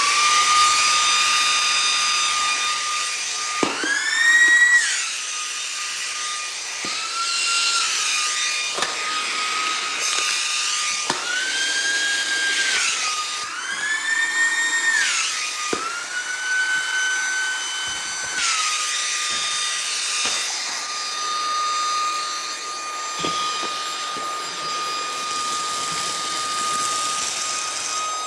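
Vacuum cleaner motor running with a steady high whine. About five times its pitch rises for a second or two and then settles back, with a few light knocks along the way.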